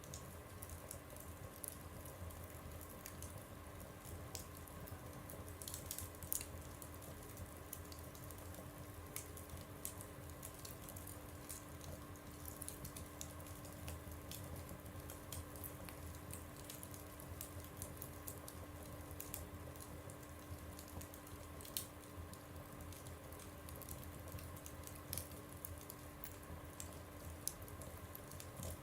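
Fire burning in a stove, with faint, irregular crackles and pops scattered over a steady low hum.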